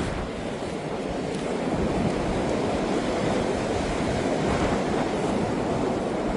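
Blizzard wind blowing hard and steadily, rushing across the microphone.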